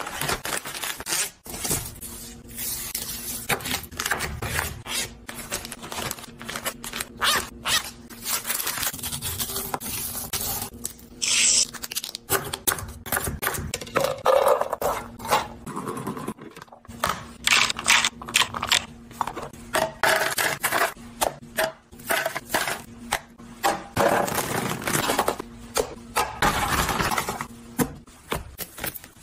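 Kitchen handling sounds of food being unpacked and stored: packaging and containers scraped, rustled and set down, with many short clicks and knocks.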